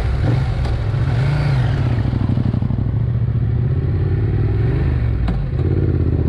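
Adventure motorcycle engine running under way, its pitch rising and falling with the throttle, over steady wind rush; a sharp knock about five seconds in.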